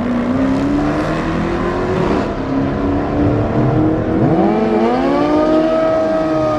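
Car engines revving and accelerating, their notes rising and falling, with several engines overlapping. In the second half one engine dips and then climbs steadily in pitch.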